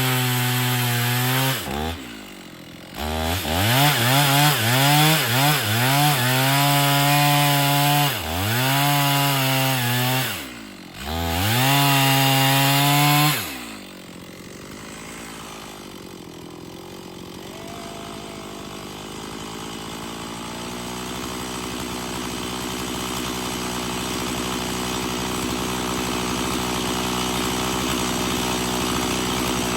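Two-stroke chainsaw in an Alaskan chainsaw mill, running at high revs while ripping a board; its pitch rises and falls and dips sharply twice. About halfway through the revs drop off to a quieter, steady engine note that slowly grows louder.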